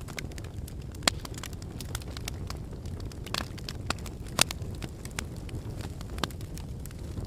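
Wood fire burning in a fireplace: a steady low rumble of flames with scattered sharp crackles and pops from the logs, two of them louder, about a second in and past the middle.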